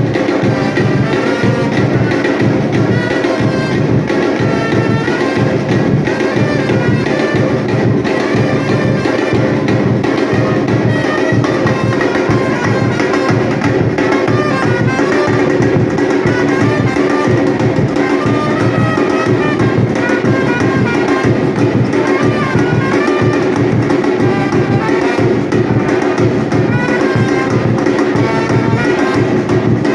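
Batucada percussion ensemble playing a steady, unbroken drum rhythm, with a melodic line carried over the drums.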